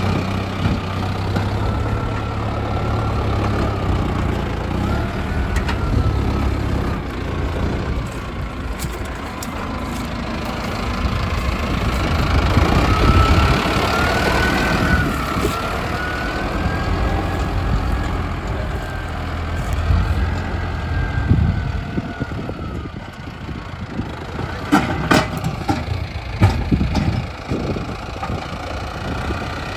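Mahindra Arjun Novo 605 DI tractor's diesel engine running steadily while working with a front dozer blade. Its pitch rises and falls through the middle, and a few sharp knocks come near the end.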